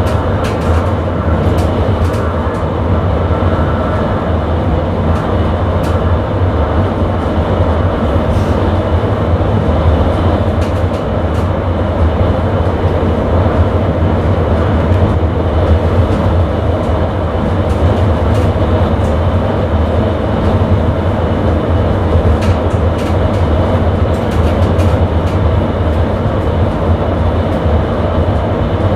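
Sprinter commuter train under way, heard from the driver's cab: a steady running rumble of wheels on rail with a low hum.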